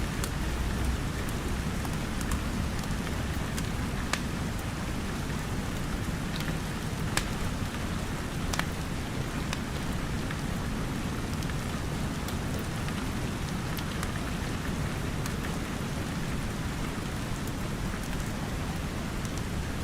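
Steady rain falling, with scattered sharp pops and crackles of a wood fire in a fireplace.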